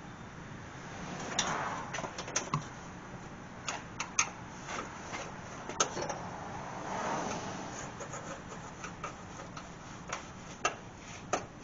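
Irregular light clicks and taps of screws and clips going into a plastic engine undercover, with a couple of brief scraping rustles as the panel is moved against the car's underside.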